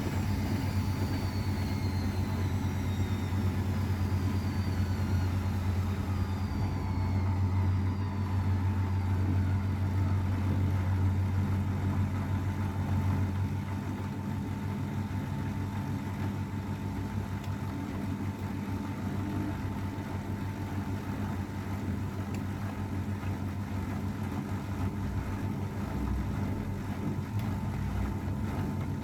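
AEG Öko-Lavamat 693 washing machine running, its motor whine falling steadily in pitch over the first several seconds as the drum slows, over a low hum that eases about halfway through.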